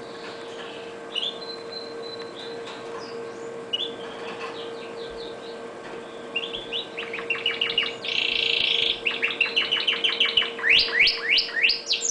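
Red factor canary singing: a few soft chirps at first, then from about halfway a loud song of fast repeated trills, a harsh buzzy note, and rapid rising sweeps.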